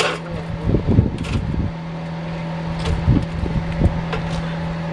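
A car engine idling steadily, with a few light knocks about a second in and again near the end.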